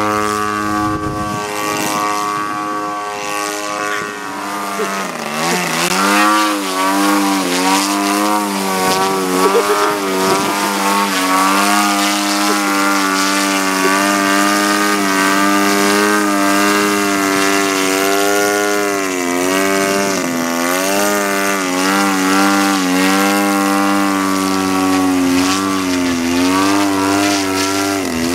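50cc gasoline engine of a radio-controlled EDGE 540T model airplane, running with its propeller. The pitch is steady at first, dips sharply about five seconds in, then keeps rising and falling.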